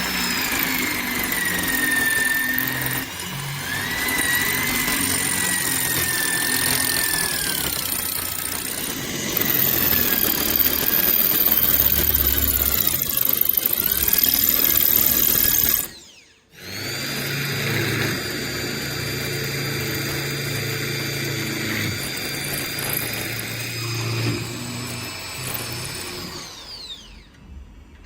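An electric power tool motor running, its pitch sagging and recovering as it works under load. It stops abruptly a little past halfway, starts again, and winds down near the end.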